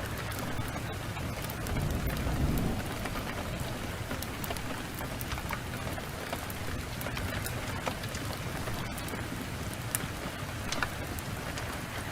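Steady heavy rain, with a low thunder rumble swelling and fading about two seconds in. Scattered sharp crackles of a wood fire run through it.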